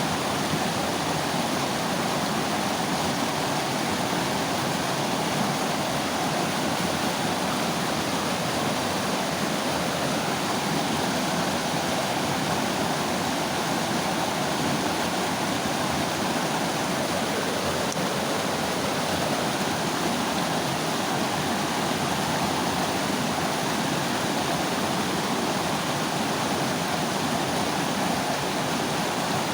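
Mountain river flowing, a steady rush of water over rocks.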